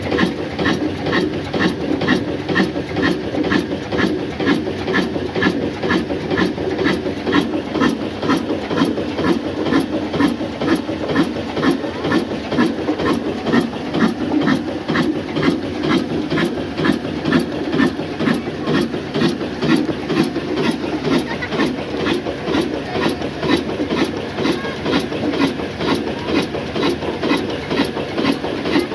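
Old black Ruston Hornsby-type diesel oil engine running steadily under load, driving a flour mill, with an even thumping exhaust beat about three times a second.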